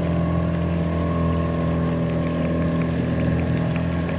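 Small boat's outboard motor running steadily, the boat under way.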